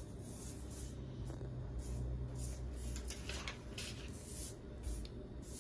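Faint, irregular scratchy noises, several short ones in quick succession, over a low steady hum.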